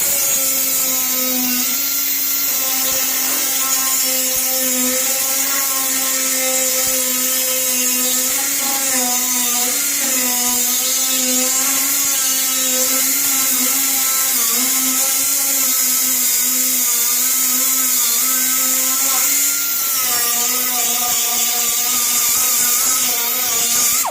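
Small air-powered cutting or grinding tool running continuously on the steel hood, cutting away rust: a steady high whine over a strong hiss of exhaust air, its pitch dipping and wavering slightly as it bears on the metal, then stopping abruptly.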